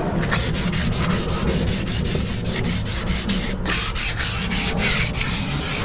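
Sandpaper rubbed by hand over a bass boat's hull in quick, even back-and-forth strokes, smoothing it out before paint, with a brief pause a little past halfway.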